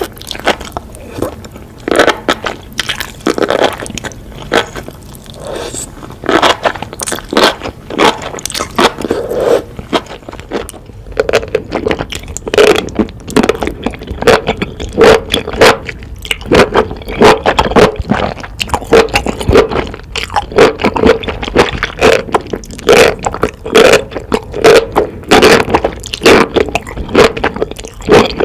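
Close-miked eating of spicy enoki mushrooms: wet, crisp bites and chewing of the springy stems. It is irregular at first, then settles after about ten seconds into steady chewing at about two chews a second.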